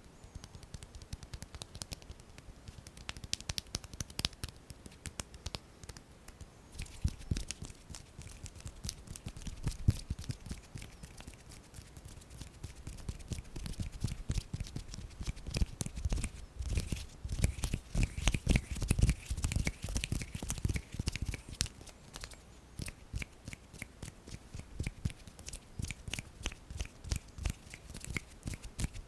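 ASMR hand sounds close to the microphone: bare hands and fingers rubbing and moving, making quick irregular clicks and rustles, with a busier stretch of soft thumps in the middle.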